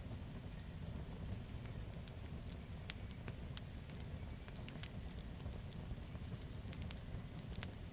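Campfire burning with a steady low rumble, wood crackling and popping in irregular sharp clicks.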